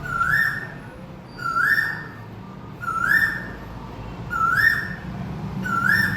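Asian koel giving its breeding-season call: a rising whistled note repeated five times, about one every second and a half.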